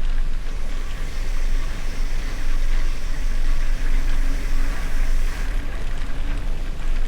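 Wind rumbling on the microphone over steady tyre noise from a gravel bike ridden at speed.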